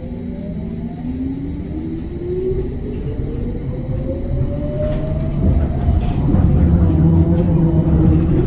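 Electric tram accelerating: the traction motors' whine rises steadily in pitch over the first several seconds over a low rumble of wheels on rails. The rumble grows louder about five seconds in.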